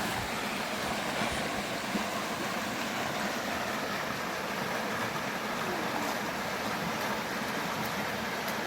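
River water flowing, a steady rushing noise with a few faint clicks.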